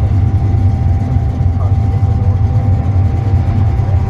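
Car engine and road noise heard from inside the cabin: a loud, steady low rumble with a faint steady whine above it.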